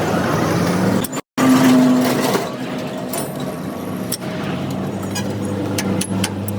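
A machine or engine running with a steady low hum, with scattered clicks. The sound cuts out completely for a moment a little over a second in.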